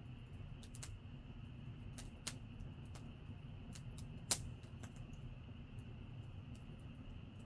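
Wood campfire crackling: irregular sharp pops and snaps over a steady low rumble, with one loud pop about four seconds in.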